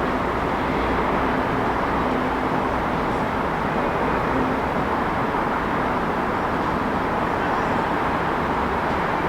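Steady city traffic noise: a continuous wash of passing vehicles with a low engine hum underneath.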